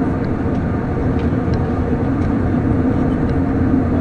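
Steady cabin drone inside an Airbus A321 airliner: jet engine and airflow noise with a constant low hum, and a few faint ticks.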